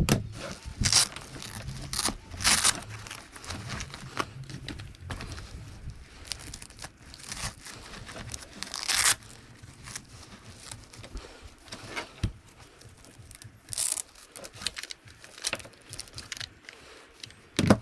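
Several short tearing rips, like hook-and-loop straps being pulled open, with quieter handling noise in between.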